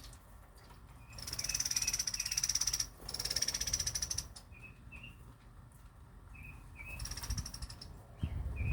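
Small birds singing: rapid, buzzy high trills, twice in a row from about a second in and again near the end, with short chirps between them.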